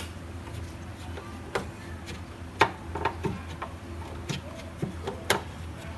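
Sharp, irregularly spaced clicks and small metal taps, about half a dozen, as a Phillips screwdriver works the two front screws of a pao steamer machine, over a low steady hum.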